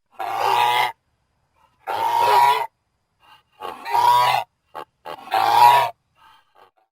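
Goose honking: four harsh, nasal honks of under a second each, about one every second and a half, with a few faint short calls between them.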